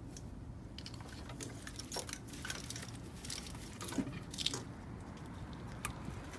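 Scattered faint clicks, light knocks and rustles from hands working on engine-bay parts and wiring, a few a little sharper around two, four and six seconds in.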